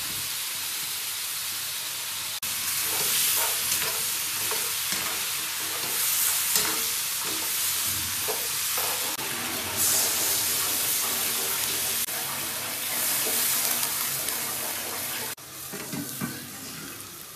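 Chunks of mutton sizzling in a hot black iron wok while a steel ladle stirs and scrapes them. About two seconds before the end the sizzle drops sharply as a steel lid is set over the wok, with a few light knocks.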